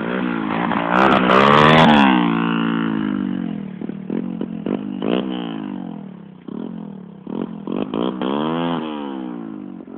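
125 cc dirt bike engine revving hard and falling back repeatedly under throttle. It is loudest about a second in, blips quickly a few times mid-way, and climbs in revs again near the end.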